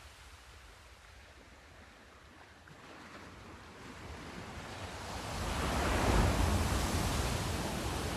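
Sea surf: a wave builds from about three seconds in, breaks with a rushing wash at its loudest around six seconds, then begins to recede.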